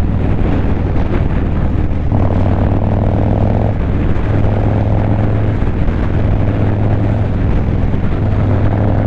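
Motorcycle engine running steadily under way, with wind rushing past the microphone; the engine note strengthens for a couple of seconds about two seconds in.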